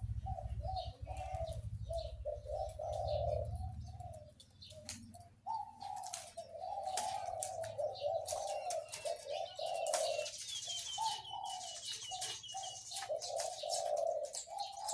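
Caged zebra dove cooing: rapid, choppy cooing phrases repeated with short pauses, the deep 'big voice' prized in dove-song contests. A smaller bird chirps a high trill in the middle stretch.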